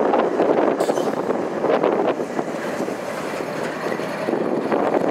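Canadian Pacific diesel locomotives rolling past: a steady rumble with scattered clicks of the wheels over the rails.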